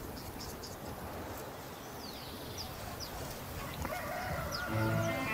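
Open-air ambience: a steady background hiss with a few short, high bird chirps scattered through it. Music comes in about four seconds in.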